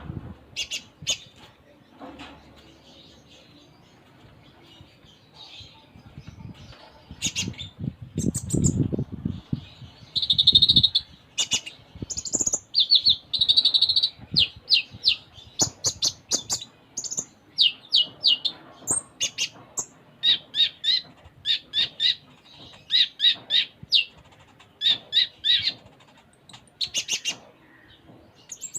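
Kolibri ninja sunbird singing a busy song: scattered high chirps at first, then from about twelve seconds in a steady run of rapid high-pitched trills, roughly one phrase a second. Its song is strung with mimicked phrases of other birds. A low rumble sits under the chirps about eight to ten seconds in.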